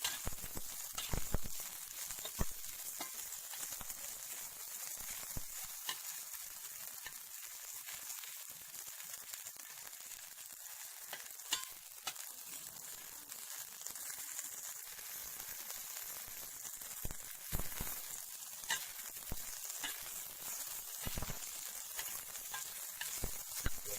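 Young cicadas sizzling as they fry in fat in a pan, a steady hiss broken by scattered clicks of stirring.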